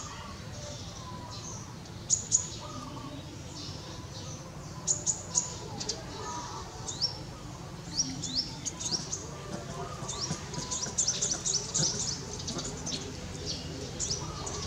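Small birds chirping: many short, high notes and quick downward-sweeping calls, growing busier about halfway through.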